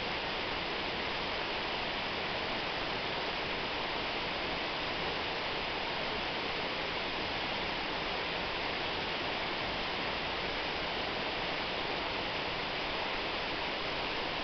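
Waterfall: falling water rushing with a steady, even noise, no single splashes standing out.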